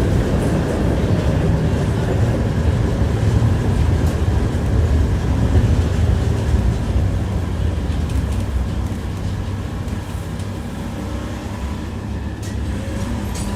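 Tram heard from inside the car while riding: wheels running on the rails with a steady, heavy rumble, growing a little quieter in the second half.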